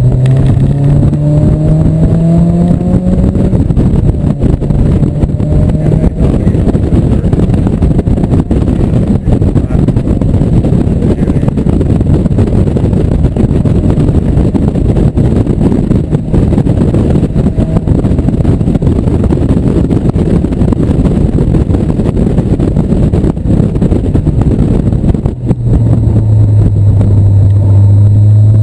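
1997 Mazda Miata's 1.8-litre four-cylinder engine under hard acceleration, its pitch rising over the first few seconds, then largely covered by a loud, even rush of wind and road noise in the open cockpit at speed. Near the end the level dips briefly and the engine note comes back strong and steady.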